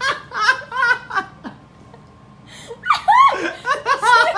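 A person laughing in two bouts of short, quick bursts, the second bout starting about three seconds in.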